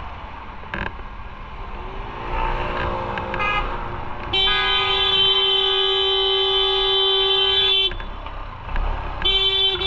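A vehicle horn held in one steady blast of about three and a half seconds, then sounding again near the end, over engine and road noise in traffic.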